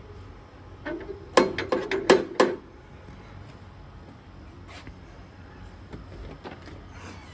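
A quick clatter of about six sharp knocks and clinks in a row, starting about a second and a half in and over within about a second, with a few fainter single clicks before and after.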